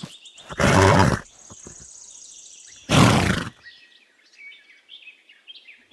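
A foal makes two short, loud calls about two seconds apart, with birds chirping faintly behind.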